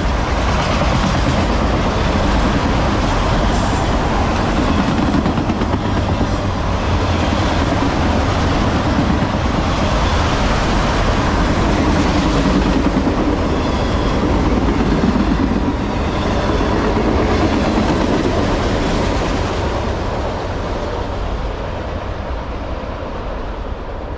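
Autorack freight cars rolling past at speed: a steady, loud noise of steel wheels on rail that fades over the last few seconds as the end of the train goes by.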